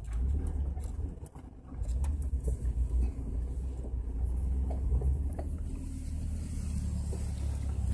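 Off-road vehicle engine running at low speed as it crawls a rough trail, a steady low rumble with scattered knocks and rattles. The sound dips briefly about a second and a half in.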